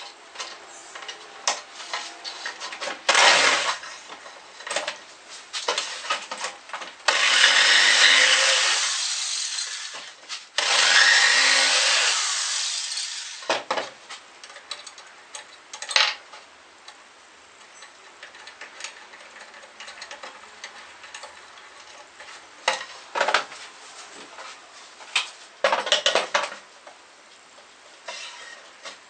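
Workshop tool work: a power tool runs twice for about three seconds each, midway through, amid scattered knocks and clatter from handling tools and wood.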